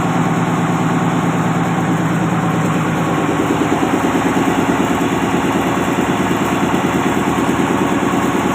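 Stationary diesel engine running steadily with a fast, even chugging, powering production machinery under load.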